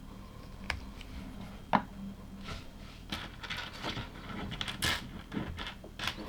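Small plastic LEGO pieces clicking and rattling as they are handled and fitted together. There are scattered sharp clicks, the loudest about two seconds in, with denser rustling and tapping in the second half.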